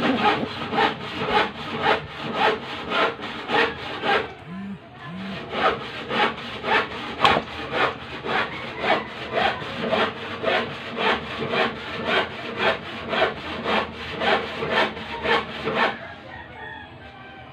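Rhythmic scraping strokes, about three and a half a second, like hand sawing or filing, with a short break about four seconds in and stopping near the end.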